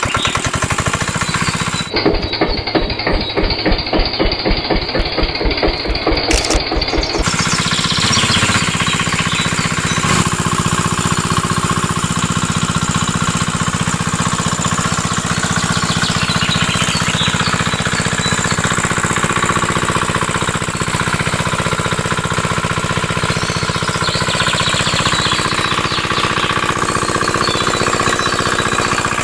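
Small engine of a homemade miniature water-pump machine running with a rapid knocking beat. From about two seconds in, the beats come through separate and distinct for several seconds, then it settles back into a dense, steady run.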